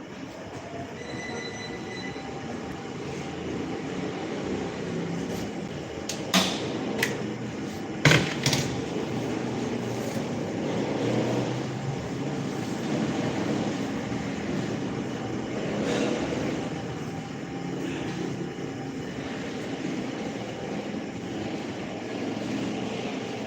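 Steady rumbling noise, with a few sharp clicks or knocks about six to eight and a half seconds in, the loudest near eight seconds.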